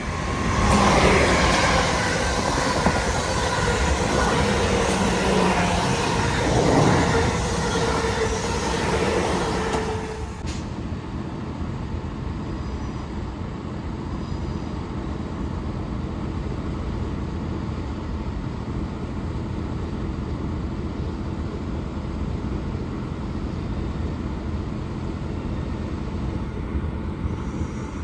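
A train passing, loud for about the first ten seconds with a few steady tones running through the noise. It then cuts suddenly to a quieter, steady rumble.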